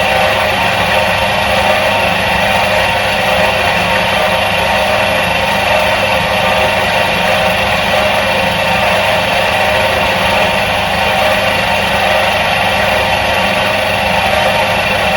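Electric motor of a 1977 Soviet washing machine running steadily, a constant hum with no change in speed or level.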